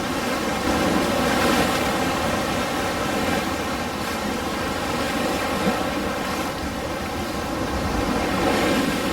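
Ocean surf: a steady wash of breaking waves, swelling a little about a second in and again near the end.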